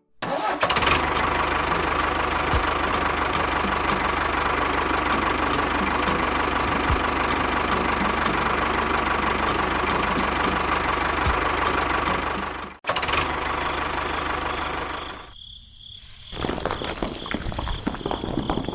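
A small motor running steadily with a constant whine, with a sudden break about 13 seconds in and a brief drop in level near the end.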